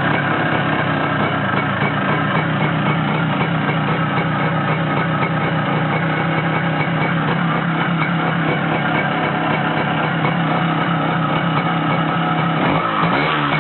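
Kawasaki KH100EX's single-cylinder two-stroke engine running steadily just after a cold start. Near the end its pitch begins to rise and fall.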